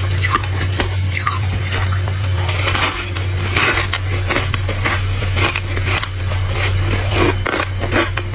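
Someone biting and chewing crunchy freezer frost, a rapid, irregular run of crisp crunches over a steady low hum.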